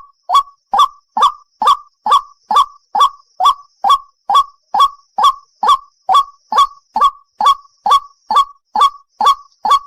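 White-breasted waterhen calling 'ruak-ruak', a fast, steady, unbroken series of harsh repeated notes, about two and a half a second.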